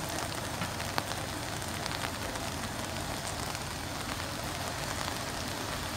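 Steady rain hiss with a few sharp drip ticks, over the low steady running of an FER ALn 668 diesel railcar set as it starts to pull away.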